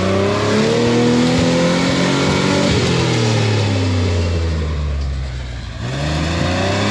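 Off-road rig's engine revving hard on a rock climb: the revs rise, hold high, sag about five seconds in, then climb again near the end.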